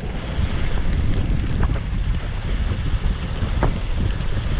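Wind buffeting the microphone of a camera riding along on a moving bicycle: a steady low rumble, with a few faint clicks.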